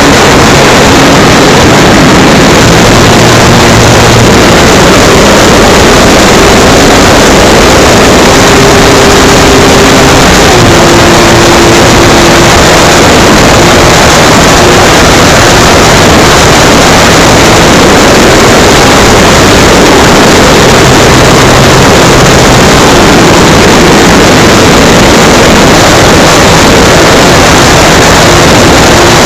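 Electric motor and propeller of an FMS Cessna 182 RC model plane heard from its on-board camera, mostly buried under loud, steady wind rush over the microphone. The motor's pitch shifts now and then as the throttle changes.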